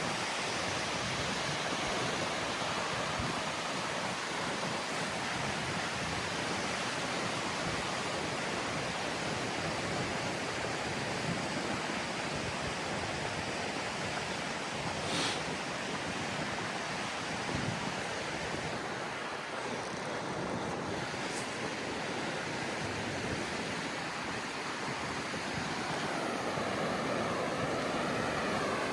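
Steady rushing roar of Goðafoss waterfall, with wind buffeting the microphone and a brief click about halfway through.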